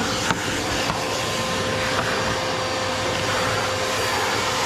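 Steady whirring drone of a running machine, with a faint steady whine in it and a light click about a third of a second in.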